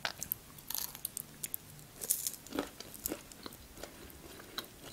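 Close-mouthed chewing of churchkhela, the grape-jelly-coated nuts crunching in short, irregular clicks and crackles.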